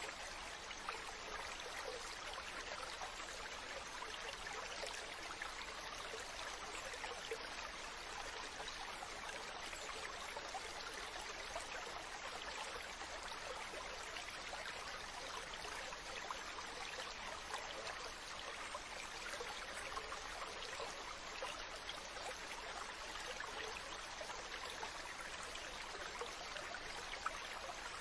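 Ocean water washing and splashing in a steady, even rush with no distinct wave surges.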